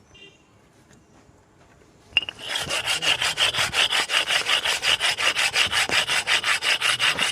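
A rapid, rhythmic rasping scrape, about seven strokes a second, that starts about two seconds in and keeps on steadily.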